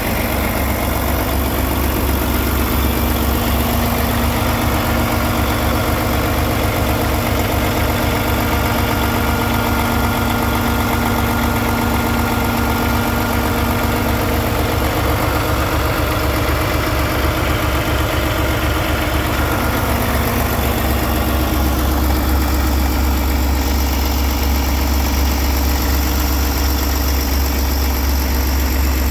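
Paccar 510 hp diesel engine of a Peterbilt 389 tractor idling steadily.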